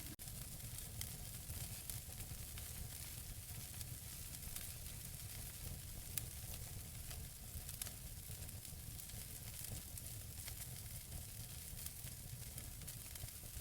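Wood fire burning in a fireplace: a steady low rumble and hiss with scattered crackles and a few sharper pops, the loudest about six seconds in.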